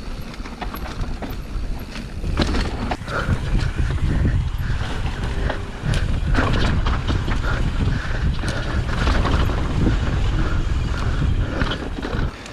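Mountain bike descending a dry, loose dirt trail: wind rumbling on the camera microphone, with tyres crunching over dirt and rocks and the bike clattering in short knocks.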